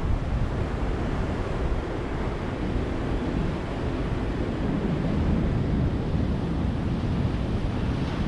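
Ocean surf: a steady wash of waves breaking on a beach.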